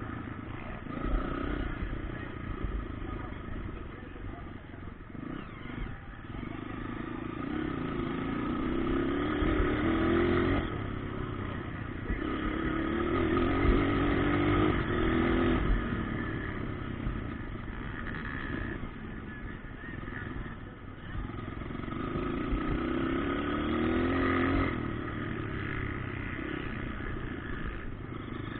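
Motocross dirt bikes running on a track, engines revving up in repeated rising sweeps as they accelerate through the gears, the sound swelling and fading several times as bikes come near and move away.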